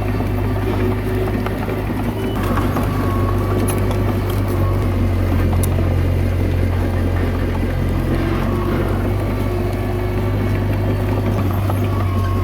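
Komatsu D21A bulldozer's diesel engine running steadily while the machine works, a continuous low hum with a fainter higher whine over it.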